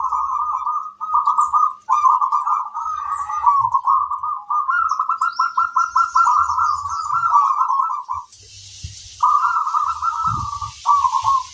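Zebra dove (perkutut) cooing in rapid, rolling trilled phrases, repeated with short breaks. A little past eight seconds in the cooing stops for about a second while a hiss sounds, then it starts again.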